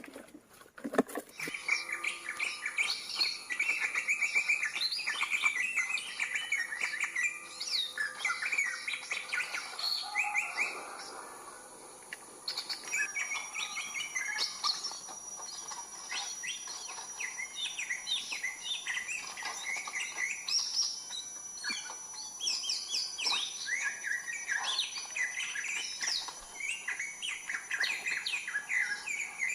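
Many wild forest birds chirping and calling in quick, overlapping notes, over a steady high insect hum. A thin, steady high whine comes in partway through and holds.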